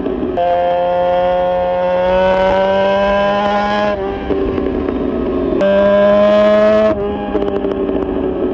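Honda VFR400 NC30's V4 engine through a GP exhaust, ridden on the road. It pulls on steady throttle with the pitch slowly climbing, eases off about halfway through, gives a short louder burst of throttle, then eases off again near the end.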